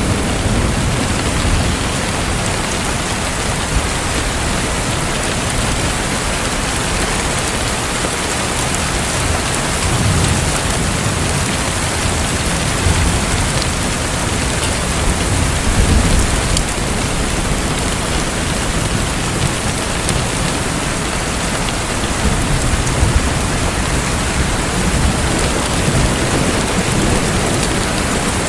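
Steady, dense rushing of water like heavy rain, with deep low rumbles swelling now and then.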